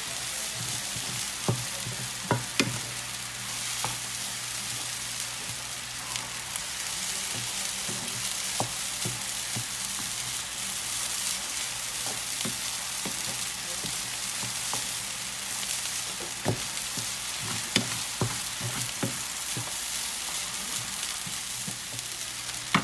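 Fried rice sizzling in a hot skillet as it is stir-fried and browned, with occasional sharp knocks and scrapes of a wooden spatula against the pan.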